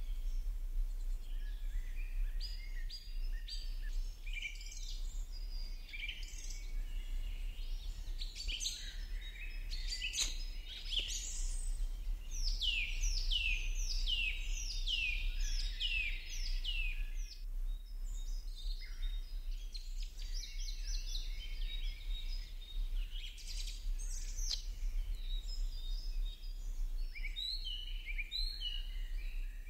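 Birds chirping and calling, including a run of about seven quick down-slurred notes in the middle, over a steady low hum.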